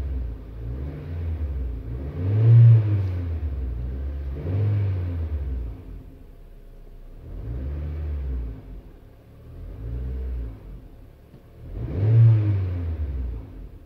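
Honda Civic's R18A 1.8-litre four-cylinder petrol engine revved in short blips from idle while parked, about six times, each a rise and fall in pitch, heard from inside the cabin.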